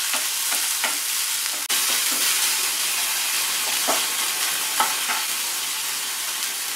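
Chopped onion and tomato sizzling in hot oil in a non-stick frying pan as the tempering for dal, a steady hiss with a few light scrapes of a wooden spatula stirring.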